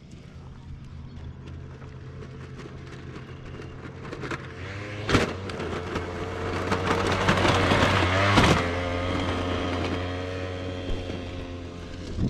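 Moped engine running on a dirt track, its steady tone growing louder until about eight seconds in and then easing off as the bike passes. Two sharp knocks cut through it, one about five seconds in and one just after eight.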